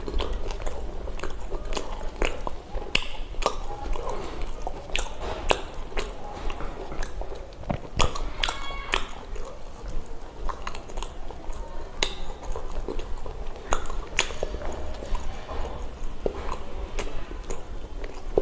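Close-miked mouth sounds of someone eating pav bhaji, the soft bread rolls and mashed vegetable curry: continuous wet chewing and biting with many irregular sharp clicks and smacks. A short pitched sound comes about eight and a half seconds in.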